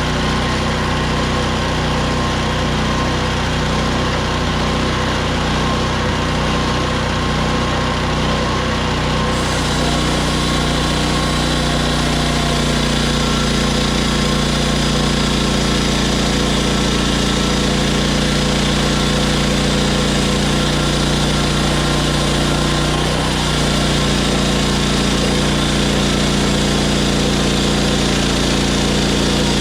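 Engine of a Hudson HFE30 bandsaw sawmill running steadily. About nine seconds in, a brighter hiss joins it and continues.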